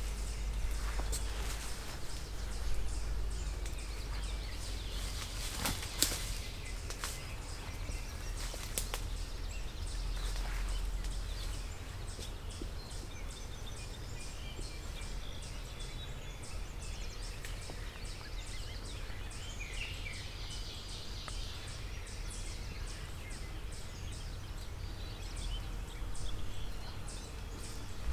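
Footsteps snapping twigs and crunching dry leaves on the woodland floor, a few sharp cracks in the first ten seconds, over a steady low rumble. Later the steps stop and faint bird calls are heard in the quiet woods.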